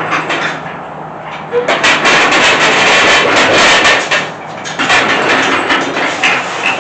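Engine hoist being shoved and dragged across the shop floor, its casters and steel frame scraping and rattling, because the hoist does not slide freely. Two long noisy stretches, the first starting about two seconds in, the second following after a short let-up.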